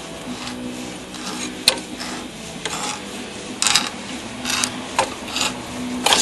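Metal tools and parts clinking and scraping in a few short, sharp knocks at irregular intervals, over a steady low hum.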